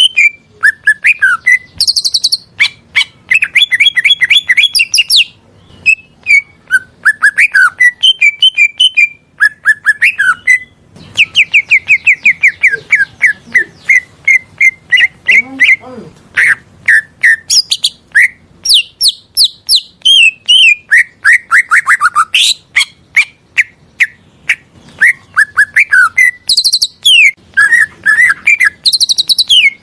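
Cucak ijo (green leafbird) singing loudly and continuously, a varied song of fast trills, rising and falling whistled sweeps and rapidly repeated notes, broken by short pauses between phrases.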